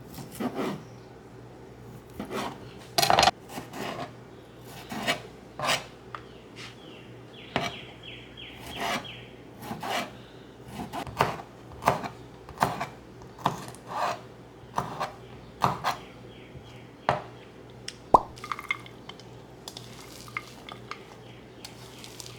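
Kitchen utensils scraping and clattering against dishes or a cutting board in short irregular strokes, one or two a second, over a faint steady hum.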